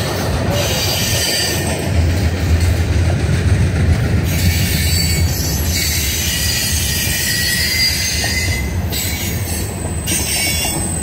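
A train rolling past, its steel wheels squealing on the rails: thin high squeal tones over a steady rumble.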